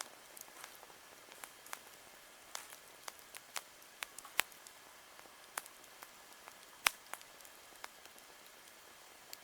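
Wood campfire crackling: irregular sharp pops and snaps over a steady soft hiss, the loudest pops about four and a half and seven seconds in.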